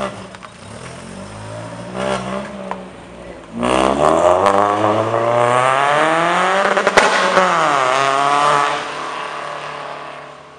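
Ford Fiesta Zetec S on a full Milltek exhaust: two short revs, then hard acceleration with a rising exhaust note. The note is held high, with a sharp crack about seven seconds in, and falls away as the car passes.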